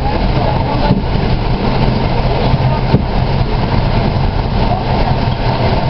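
PKP SA103 diesel railbus running along the line, heard from inside: a steady diesel engine drone under the rumble of wheels on the track, with two light clicks about one and three seconds in.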